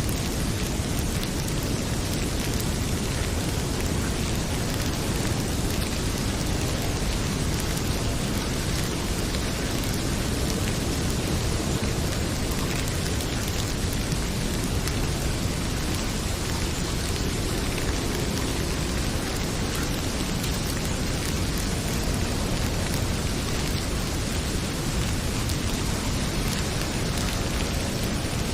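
Heavy rain pouring steadily, with a steady low rumble under it and the small scattered crackles of a wood fire burning in a fireplace.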